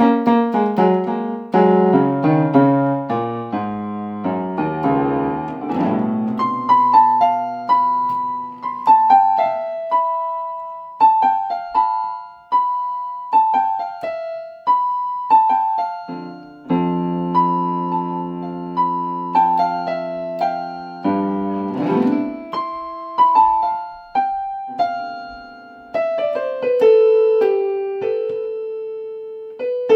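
A keyboard with a piano sound, played solo. It opens with a fast falling run of notes, then plays a slower melody of single notes, with a chord held for a few seconds past the middle.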